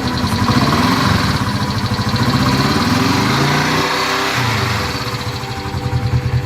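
Motorcycle engine rising in pitch as it revs, falling away about four seconds in, then settling to a steady throbbing idle.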